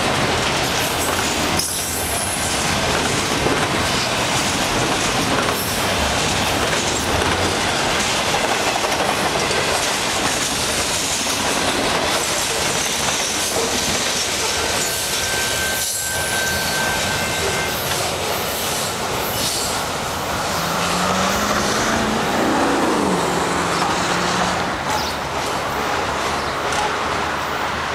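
Freight cars of a long mixed freight train rolling past: a steady rumble and clatter of steel wheels on the rails, with a thin wheel squeal around the middle and a low wavering tone near the end.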